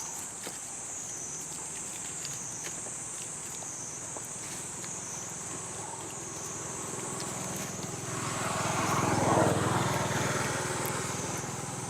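A motor vehicle's engine grows louder and then fades as it passes, loudest about nine and a half seconds in. A steady, wavering high drone of insects runs underneath.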